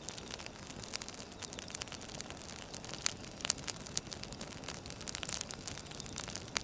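Wood fire burning with irregular sharp crackles and pops over a steady hiss, several a second, a few louder pops about three seconds in.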